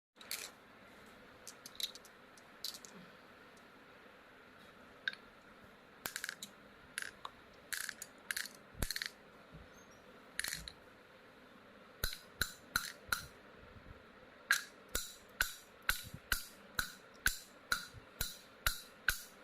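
A stone striking metal balls: sharp metallic clinks with a short ring, scattered at first, then about twelve seconds in a steady run of roughly two strikes a second.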